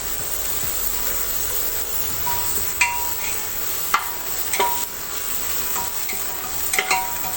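Chopped onions and ginger-garlic paste sizzling in hot oil in a pan, with a spoon stirring and clinking against the pan a few times, some clinks leaving a short metallic ring.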